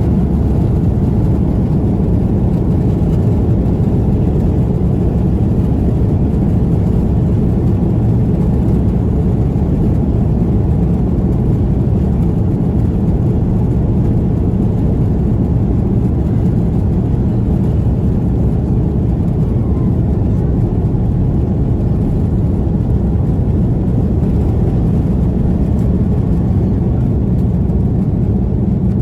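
Steady low rumble of an Airbus A330-300's jet engines and airflow heard inside the passenger cabin.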